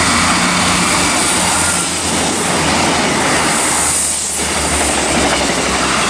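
A pair of Class 159 diesel multiple units passing through a station without stopping: loud, steady rail noise from the wheels, with a low steady diesel engine note beneath it.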